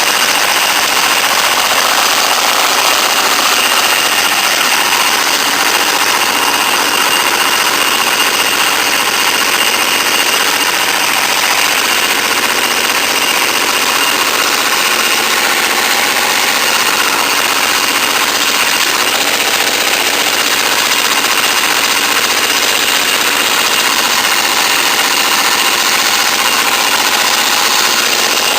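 Small go-kart engine running steadily, a loud even mechanical clatter that holds the same pace throughout.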